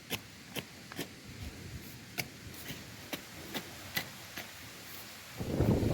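A run of sharp little clicks, about two or three a second and unevenly spaced; near the end, strong wind gusts buffet the microphone.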